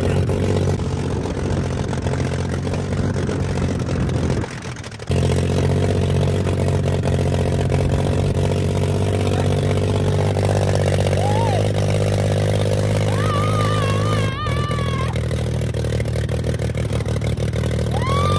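Motorbike engine running steadily, with a brief dip about four and a half seconds in. A wavering high call, likely a voice, sounds over it about thirteen seconds in.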